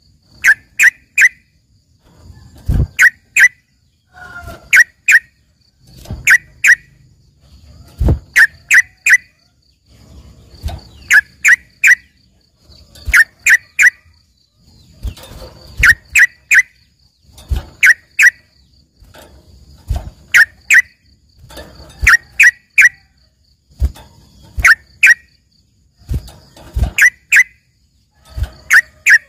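Trucukan (yellow-vented bulbul) singing in quick groups of two or three sharp, high notes, repeated about every one to two seconds, with the loud, lively song of a bird filled with learned phrases.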